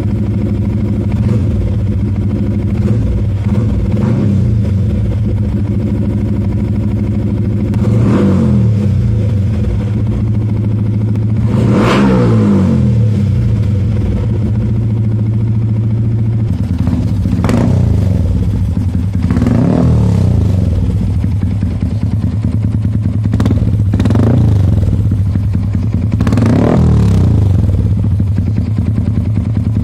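Yamaha R15 V3's single-cylinder engine idling through a Sakura Slash full-system exhaust with the dB killer removed. The throttle is blipped about six times, each rev rising and falling back to idle; the one about twelve seconds in goes highest. The revs are kept well short of the 10,000 rpm limit because the engine is still in break-in.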